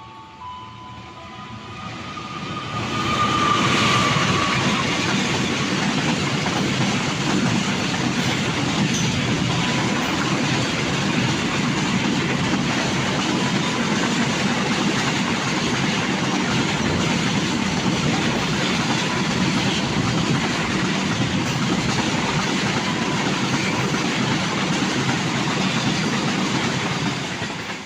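A train passing close by: a loud, steady rumble and clatter of wheels on the rails that builds over the first three seconds, holds, then cuts off suddenly at the end.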